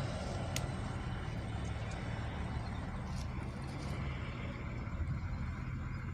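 A loaded sugarcane truck's diesel engine running steadily, with one short sharp click about half a second in.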